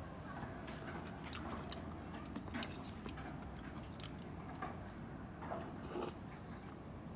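A person chewing and eating a mouthful of miso soup with eggplant, with scattered small clicks and smacks, the loudest about two and a half seconds in and again near six seconds, over a steady low background rumble.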